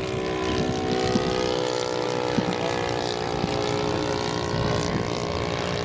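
Moki 250cc five-cylinder radial engine of a giant-scale RC Corsair running at a steady pitch.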